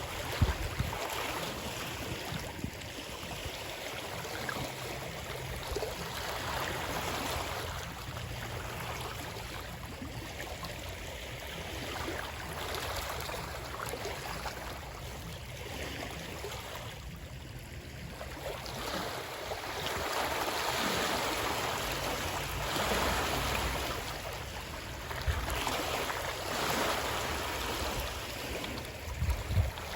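Continuous flowing water, swelling and easing every few seconds, with a couple of low thuds near the start and near the end.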